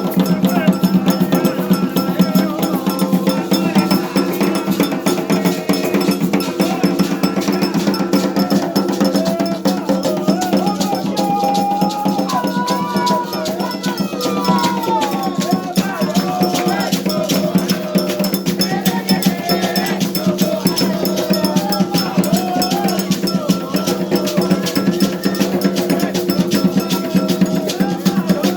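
Afro-Brazilian ritual music: hand drums and a clanking bell keep up a fast, steady beat with rattles, while voices chant over it.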